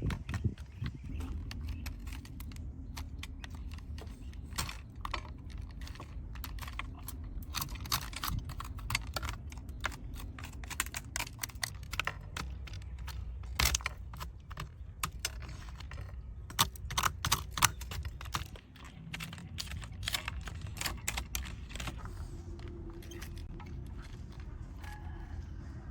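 Rapid, irregular small clicks and taps of hard parts being handled, as on a diecast model truck being cleaned, over a low rumble.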